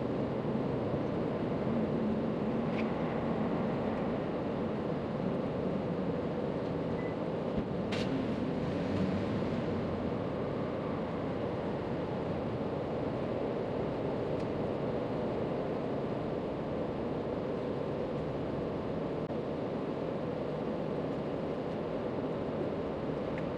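Steady background rumble and hiss of outdoor ambience, with one sharp click about eight seconds in.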